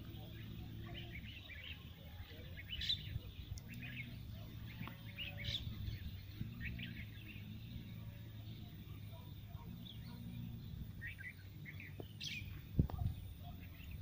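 Wild birds chirping and calling in short scattered notes over a low steady background rumble, with a single brief low thump near the end.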